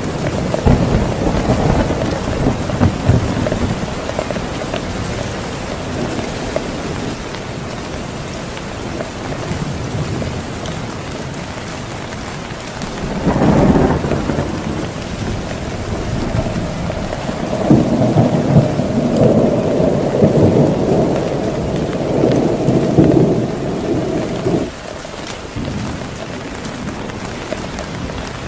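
Heavy rain falling steadily, with rumbles of thunder: a sudden louder rumble about halfway through, then a long rolling rumble that cuts off suddenly shortly before the end.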